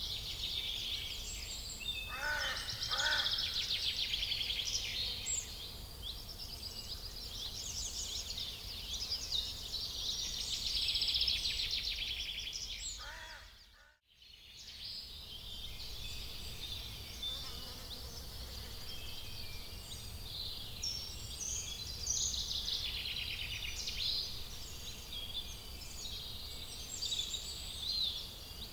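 Many small birds singing at once: overlapping chirps and rapid trills, with two lower calls about two seconds in, over a steady low rumble. The sound drops out briefly about halfway through and comes back.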